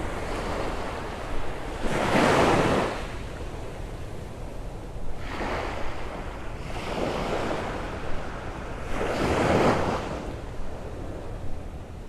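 Small surf breaking and washing up the sand in about four swells, each rising and falling back, over a steady wash of sea and some wind on the microphone.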